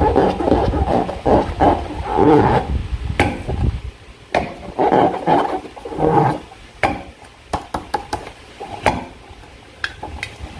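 Slime being worked by hand: irregular wet squelches, loudest in the first few seconds, with sharp sticky clicks and pops further on.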